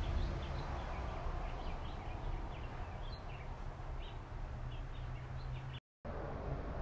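Small birds chirping in short, scattered calls over a steady low outdoor rumble; the sound drops out completely for a moment near the end.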